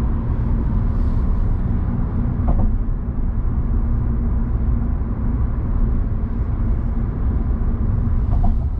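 Steady low rumble of road and engine noise inside a car driving at speed.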